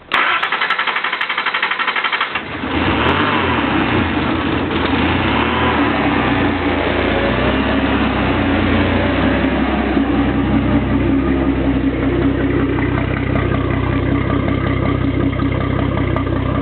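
Datsun 280ZX Turbo's 2.8-litre turbocharged straight-six cranking on the starter for about two and a half seconds, then catching and running rough at a fast idle after a rebuild, its air-fuel ratios all over the place. A buzz comes from the engine fan hitting cardboard left over the radiator.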